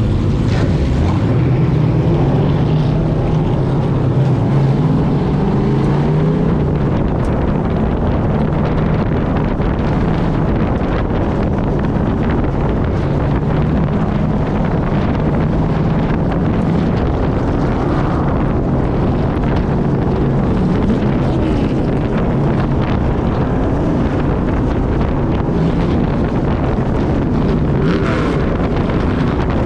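Race truck's engine running hard at speed, its pitch rising and falling again and again as the driver gets on and off the throttle, with wind buffeting the microphone.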